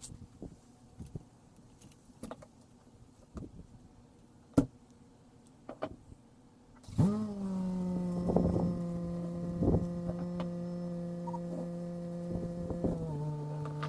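A few scattered clicks and knocks, then about seven seconds in a motor starts and runs with a steady hum, its pitch stepping down slightly near the end.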